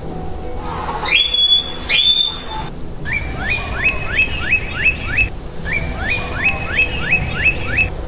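Bird calls: two rising whistles, then two runs of quick repeated chirps, about three to four a second, over a faint steady background.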